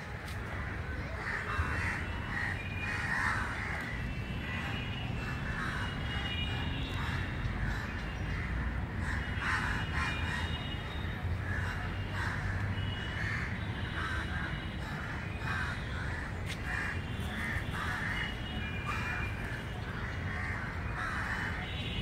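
Birds calling: many short, harsh calls one after another, with thin higher chirps over them.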